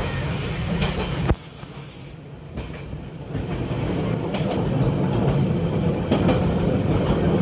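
Passenger train heard from aboard, running along the track with wheels clicking over rail joints every couple of seconds. The running noise drops off sharply a little over a second in and builds back up about two seconds later.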